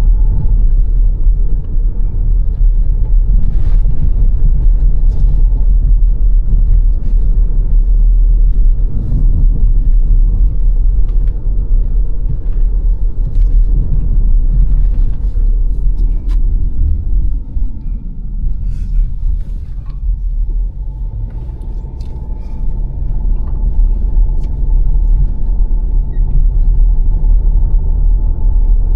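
A car driving along a road: a steady low rumble of tyres and engine, with scattered light ticks. The rumble eases for a few seconds past the middle, then builds back up.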